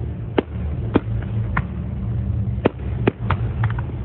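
Fireworks going off: about eight sharp pops at irregular intervals, several close together near the end, over a steady low rumble.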